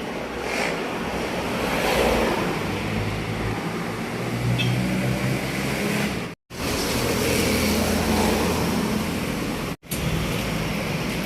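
Street traffic noise: a steady wash of road vehicles with low engine rumble, swelling as vehicles pass, and broken twice by brief gaps in the sound.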